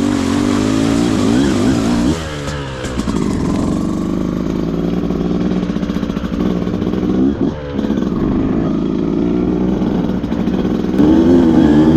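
Beta 200RR two-stroke dirt bike engine running on the trail, its revs rising and falling with the throttle. The revs drop briefly about two seconds in and again near seven and a half seconds, then rise near the end.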